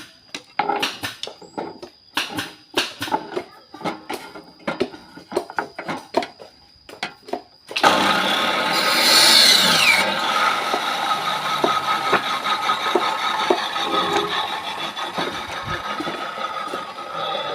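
Irregular knocks and clicks for about eight seconds, then a Maktec electric power tool switches on suddenly and runs cutting wood. A high whine drops in pitch soon after it starts, and the tool cuts off just before the end.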